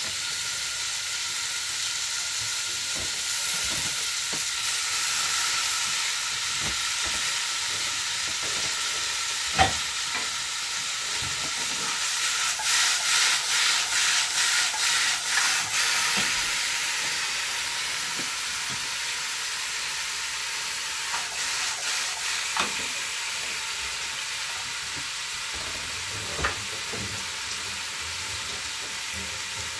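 Hamburger patties sizzling in a frying pan, a steady hiss. Scattered knocks, and a quick run of kitchen clatters about halfway through.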